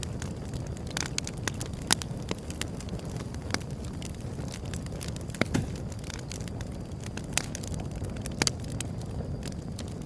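Wood fire burning: a steady low rush of flame with irregular sharp crackles and pops, a few of them louder.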